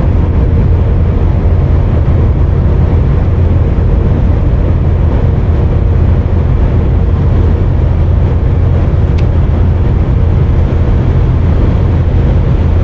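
Steady low drone inside a truck cab at motorway speed: the diesel engine and tyre and road noise, with a faint steady hum above it.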